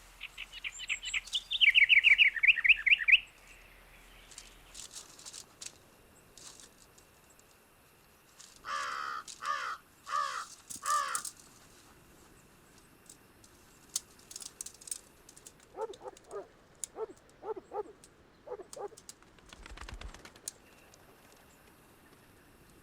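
Wild birds singing and calling: a loud rapid run of repeated chirps in the first three seconds, then two later series of short pitched calls, the second lower. Faint scattered clicks and a short low thump near the end.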